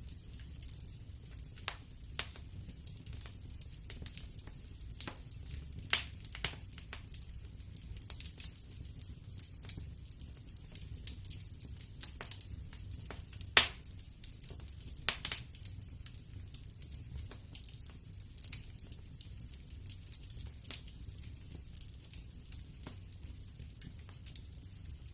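Wood fire in a fireplace crackling: irregular sharp pops and snaps over a low steady rumble, with one louder pop about halfway through.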